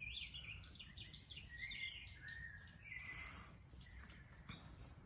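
Several songbirds chirping and singing at once, faint: many short chirps with a few longer whistled notes, over a low steady background rumble.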